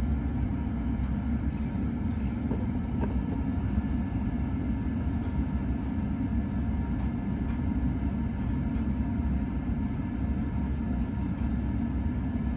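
Steady low rumble of a furnace, with a few faint, short squeaks near the start and near the end from a 1981 Envirofan Goldline ceiling fan turning slowly on worn bearings.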